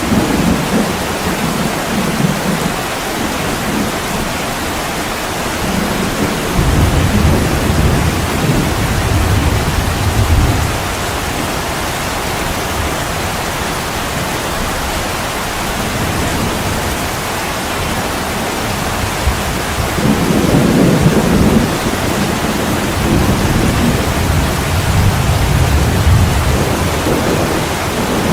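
Heavy rain pouring steadily on a window, with low rolling rumbles of thunder swelling up about a quarter of the way in and again in the last third.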